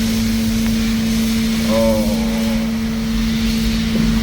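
Steady drone of industrial plant machinery: a constant mid-pitched hum over a low rumble, unchanging throughout.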